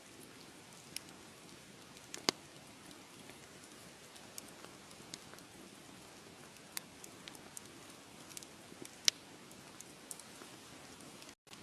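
Wood fire crackling: irregular sharp pops and snaps over a soft steady hiss, the loudest pops about two seconds in and about nine seconds in. The sound drops out for an instant near the end.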